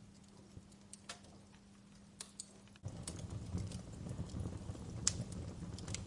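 Wood fire crackling, with scattered sharp pops and snaps. Almost three seconds in, a low rumbling flame noise comes in suddenly and the burning grows louder.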